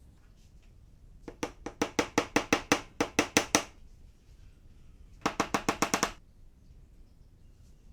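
Two quick runs of rapid, evenly spaced knocks: about a dozen strikes, then after a short pause a shorter, faster run.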